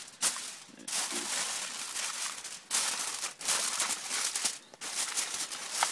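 Aluminium foil crinkling and rustling in irregular bursts as it is handled.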